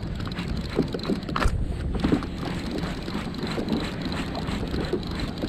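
Wind and water noise around a fishing kayak, with many small irregular knocks and splashes.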